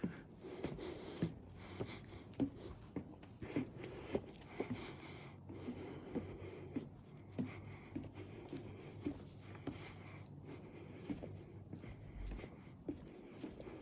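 Footsteps on a wooden boardwalk at a steady walking pace, short soft knocks a little under two a second.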